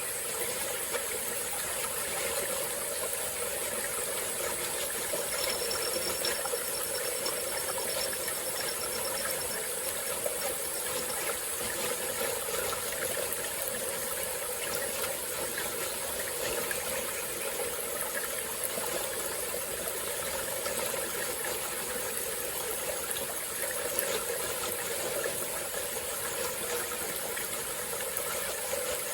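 A small tropical forest stream flowing, giving a steady, unbroken rush of running water.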